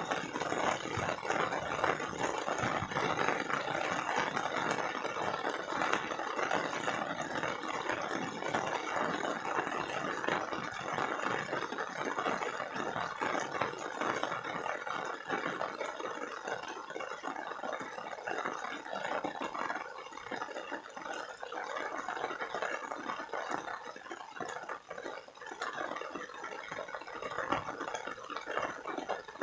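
Steady rain falling, a dense patter of countless drops, a little lighter in the second half.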